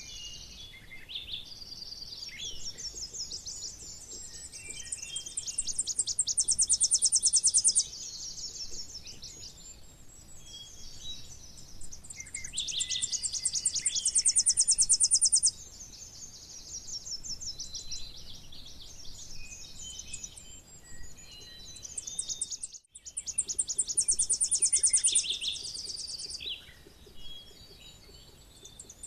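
Tennessee warbler singing: high, rapid chips that speed up and grow louder into a fast, even trill, then stop suddenly. Three songs, with fainter chirps between them and a fourth song starting at the end.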